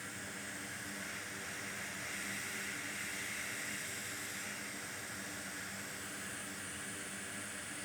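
Hot-air rework station blowing a steady hiss of air, with a faint hum underneath, as it heats solder on a MacBook Air logic board.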